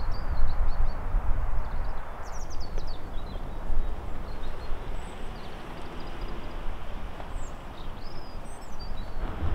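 Outdoor ambience: a steady rush of wind buffeting the microphone, with small birds chirping now and then.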